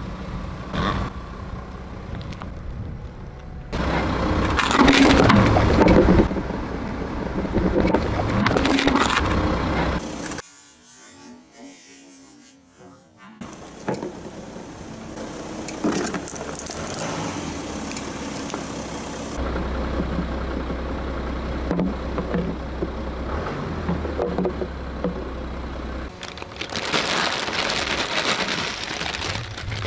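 A car's tyres rolling over and crushing objects with crackling and crunching, while the car's engine runs low underneath. The sound changes abruptly between several clips, with a short, much quieter gap about ten seconds in.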